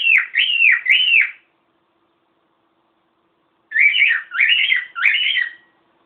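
Cockatiel whistling: three quick notes, each sliding down, then a pause, then three warbling notes.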